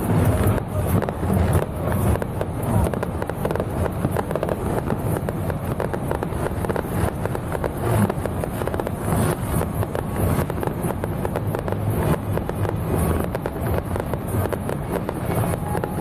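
Fireworks crackling and popping in a dense, unbroken run over a low rumble.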